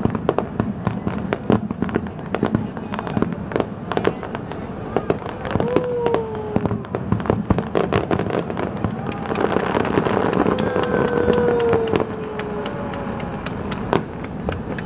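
Aerial fireworks shells bursting in rapid succession: a dense run of sharp bangs that thickens into near-continuous crackling a little past the middle, then thins out near the end.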